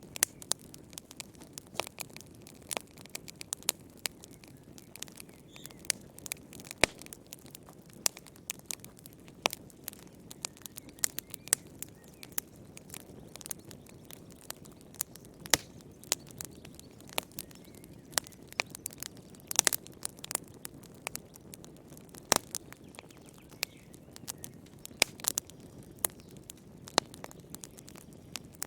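Wood fire burning in a fireplace: a low steady rush of flame with frequent irregular crackles and sharp pops from the burning logs.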